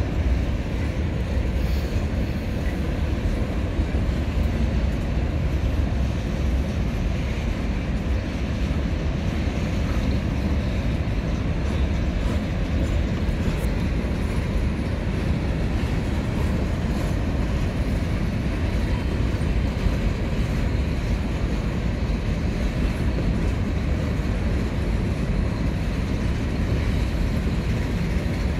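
Freight train cars rolling past on the rails, a steady low rumble.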